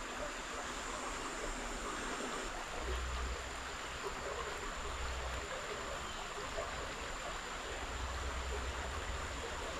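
Creek water flowing in a steady rush, with a few brief low rumbles.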